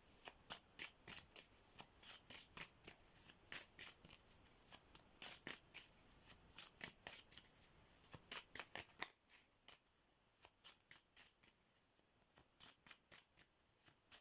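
A deck of playing cards being shuffled by hand: a steady run of light card snaps, about three a second, that turns softer about nine seconds in.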